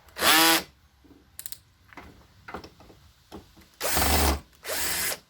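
Cordless drill-driver running in three short bursts while driving screws into a door handle, its motor pitch sliding as it speeds up and slows: one burst at the start and two close together near the end.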